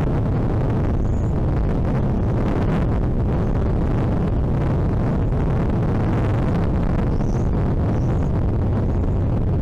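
Steady low rumble of wind buffeting an outdoor microphone, with a few faint, short, high chirps from birds.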